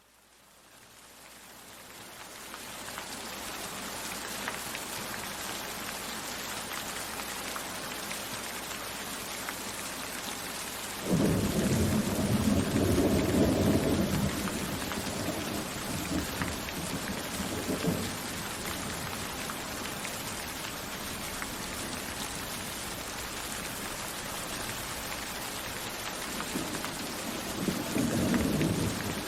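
Steady rain fading in over the first few seconds. Thunder breaks suddenly about a third of the way in and rumbles away over several seconds, and a second roll of thunder comes near the end.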